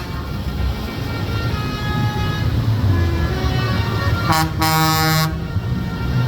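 A vehicle horn blasts once for about a second, a little past the middle, over the steady low rumble of passing engines.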